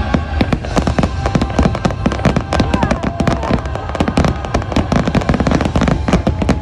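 Fireworks bursting in a dense, rapid barrage, many bangs a second with no let-up.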